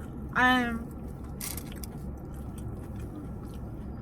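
Someone chewing food, with one short wordless vocal sound near the start and a brief rustle about a second and a half in, over a steady low hum inside a parked car.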